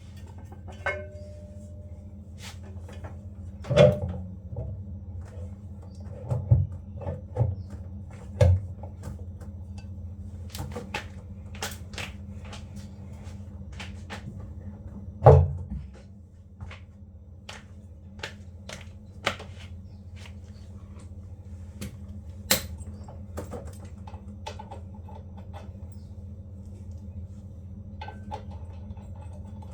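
Scattered knocks and clicks of tools and parts being handled during a washing machine repair, with the loudest thud about halfway through, over a steady low hum.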